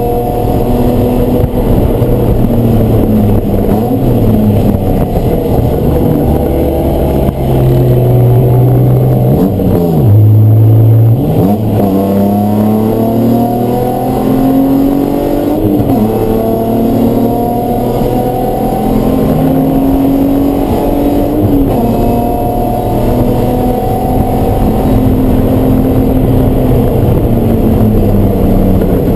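Race car engine under hard running, its pitch climbing through the revs and stepping down repeatedly as it goes up and down the gears. There are sharp dips and recoveries about every six seconds.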